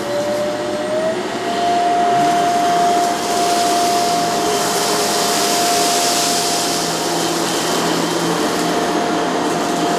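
Shark CZ351 canister vacuum running on a carpeted rug, its motor whine rising in pitch over the first second or so as it spins up, then holding steady.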